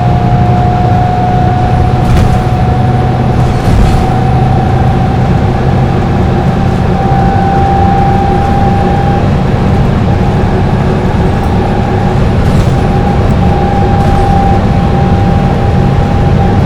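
Dennis Trident double-decker bus cruising at steady highway speed. Its diesel engine runs with a steady low drone, under a transmission whine that rises slightly in pitch.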